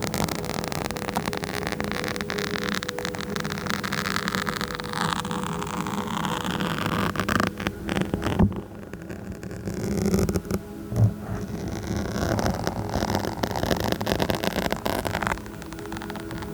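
Fingers or fingernails scratching and rubbing directly on a microphone, a dense crackly rasp with many small clicks. It dips briefly about halfway through, with a couple of sharp knocks on the mic.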